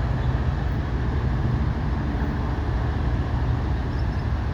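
Steady low rumble of a truck's diesel engine running, with a constant hum of road or engine noise and no change in pitch.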